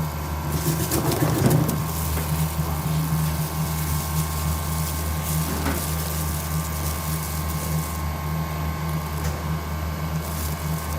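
Ripe-mango cutting machine running with a steady motor hum, with a few faint knocks and rattles over it.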